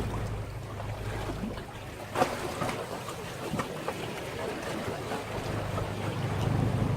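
Sea waves washing against a breakwater, with a boat engine's low drone that fades out about two seconds in and comes back near the end. A sharp slap of water sounds about two seconds in.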